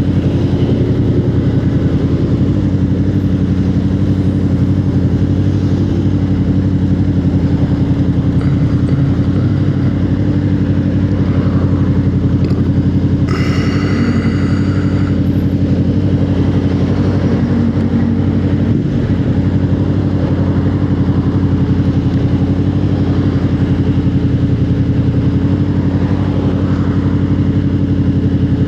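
Motorcycle engine running at a steady cruising pace, its pitch nearly constant. About halfway through, a separate higher-pitched tone sounds briefly for about two seconds.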